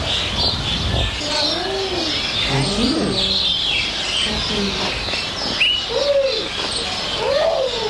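Several birds calling over one another: short rising-and-falling calls and high chirps, against a busy background.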